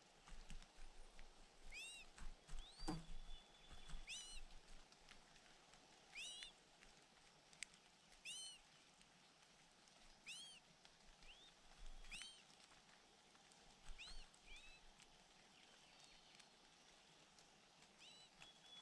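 A small bird calling with single short chirps, each rising then falling in pitch, repeated every one to two seconds, with a few faint clicks between them.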